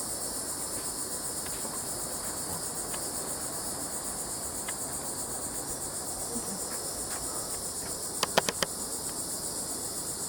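Steady, high-pitched insect chorus with a fast pulse, the shrill trilling of crickets or cicadas in the trailside vegetation. Near the end comes a quick run of four sharp clicks.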